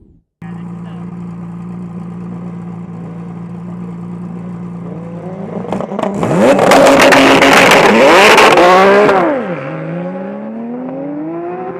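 A sports car engine under hard acceleration: a steady engine note builds into a loud stretch in the middle where the revs repeatedly climb and drop with quick gear changes, then the revs climb steadily again near the end.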